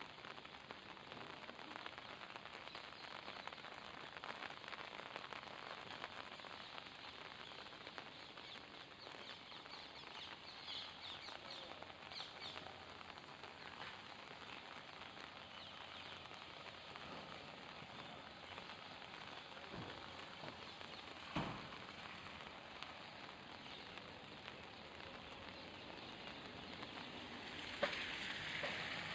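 Faint, hissing market background with small caged birds chirping and fluttering; a burst of high chirps comes about ten to twelve seconds in. Two sharp knocks stand out, one past the middle and a louder one near the end.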